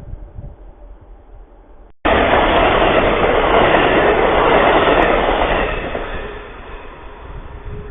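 A train passing close by on the track: loud, even wheel-and-rail noise that starts abruptly about two seconds in and fades after about six seconds. Before it, faint wind noise on the microphone.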